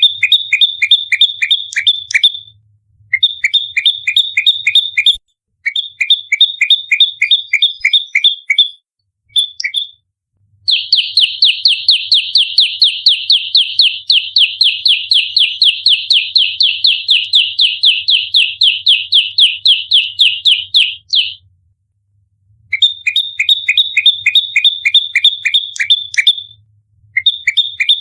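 Prenjak lumut, a prinia, singing its 'fighting' song: fast strings of sharp, repeated high chirps in bursts of about two seconds with short pauses, and one long unbroken rapid run of chirps lasting about ten seconds in the middle. This tight, rapid-fire delivery is the aggressive territorial song used to lure wild birds and train captive ones.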